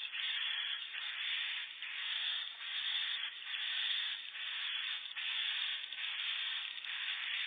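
Swiftlets chirping in a dense, buzzy chorus that swells and dips about once a second.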